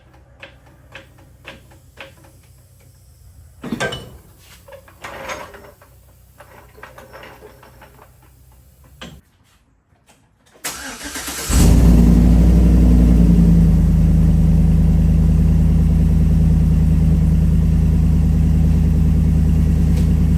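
Chevrolet Silverado 1500 pickup engine being started: the starter cranks about ten seconds in, the engine catches about a second later and settles into a steady idle. Before that, scattered clicks and knocks.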